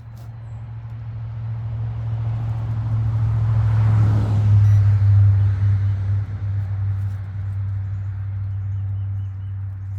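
A passing motor vehicle: a low engine hum that swells to its loudest about four to five seconds in, then fades away.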